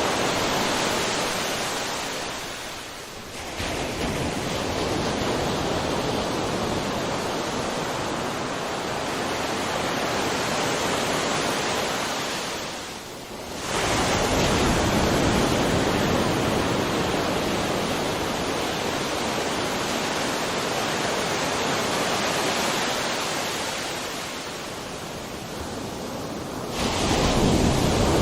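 Sea surf: a steady wash of waves, with a fresh wave breaking about every ten to thirteen seconds, near the start, about halfway through and near the end, each one easing off into a lull before the next comes in.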